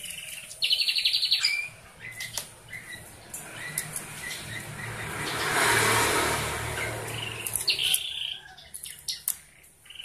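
Small birds chirping, with a quick rapid run of chirps soon after the start and more scattered chirps near the end. In between, a passing vehicle swells up, is loudest around the middle and fades away.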